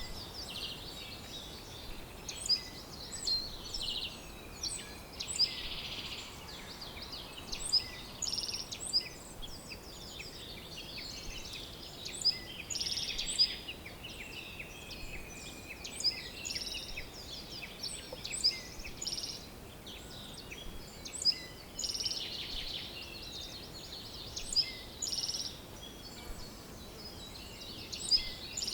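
Several birds chirping and singing, short sharp calls coming every second or so with a few buzzy trills among them, over a faint steady outdoor hiss.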